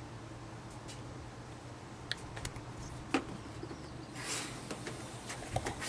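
A few light clicks and taps of condiment bottles and utensils being handled at a prep table, over a steady low hum, with a short rustle a little past the middle.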